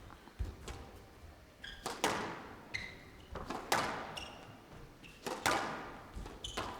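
Squash rally: the ball struck by rackets and cracking off the court walls about every second and a half, each hit echoing in the court, with short high squeaks of shoes on the court floor between the shots.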